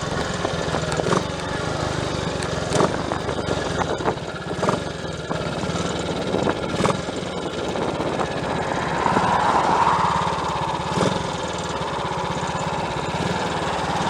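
Triumph Tiger Cub's single-cylinder four-stroke engine running steadily on a test ride after work on its misfire, with a few sharp knocks along the way.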